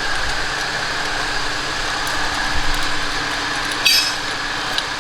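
A steady mechanical hum with one sharp metallic clink about four seconds in, like a wrench knocking against metal.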